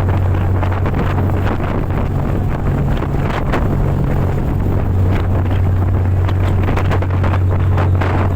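Fast boat running at high speed, its engine a steady low drone, with wind buffeting the microphone and water rushing past.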